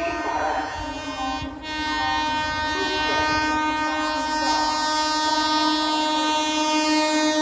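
Train horn sounding one long, steady blast, starting a little under two seconds in.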